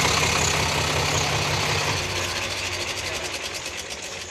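Eicher 368 tractor's diesel engine running at idle with a knocking clatter, gradually getting fainter.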